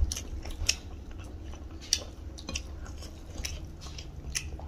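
Close-up eating sounds of people chewing rice and chicken curry eaten by hand: scattered wet mouth clicks and smacks, a few a second, over a low steady hum.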